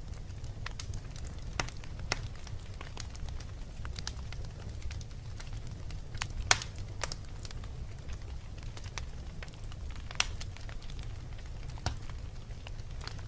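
Wood fire burning in a fireplace: irregular sharp crackles and pops over a steady low rumble, the loudest pop about six and a half seconds in.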